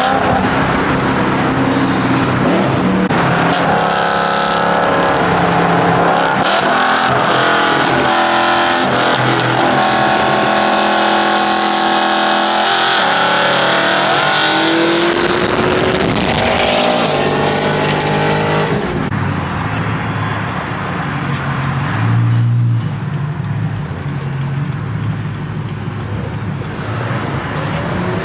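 Several performance BMW engines revving and accelerating hard, their pitch climbing and dropping through the gears, with a car passing. About two-thirds of the way through the sound turns duller, with lower engine notes.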